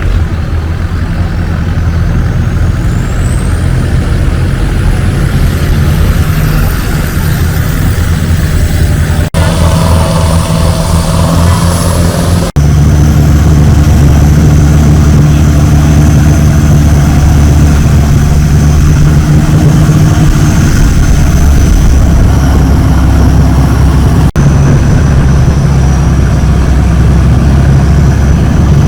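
Longtail boat engine running loud and steady under way, with a faint high whine climbing over the first several seconds. The sound drops out for an instant three times.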